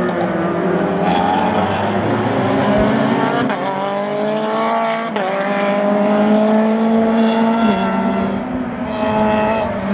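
Rally car engine accelerating hard up the hill. The pitch climbs and drops sharply at each gear change, about five seconds in and again near eight seconds, then rises again.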